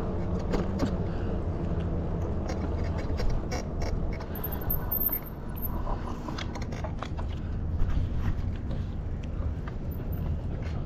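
Steady low rumble of riding noise from a bicycle on the move, with scattered clicks and rattles.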